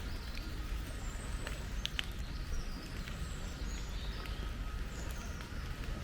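Rainy park ambience: a steady low rumble with scattered sharp ticks, and several short, high bird chirps.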